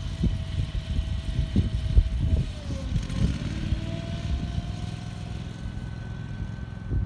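Gusty wind buffeting the microphone in irregular low rumbles. Under it runs a steady engine hum whose pitch dips about three seconds in and then climbs again.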